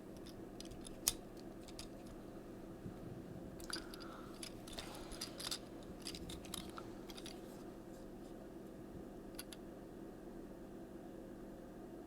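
Small plastic clicks and light rattles from a Transformers Siege Hound action figure being handled and its joints moved while it is transformed, a sharp click about a second in and a run of clicks in the middle, over a steady low hum.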